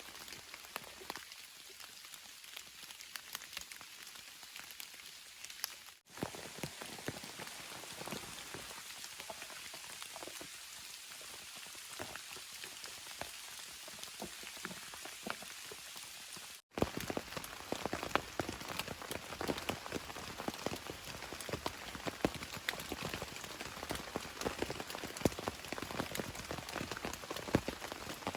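Steady rain, with many separate drops ticking close by. The sound cuts out for an instant about six seconds in and again near seventeen seconds, after which the rain is louder and fuller.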